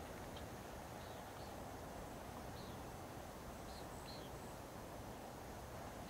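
Birds giving short, high, falling chirps, several scattered through, over a steady low rush of waterside ambience.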